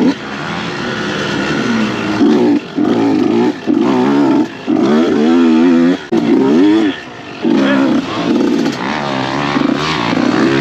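Dirt bike engine revving hard, its pitch wavering up and down, with the throttle chopped off and back on many times in quick succession.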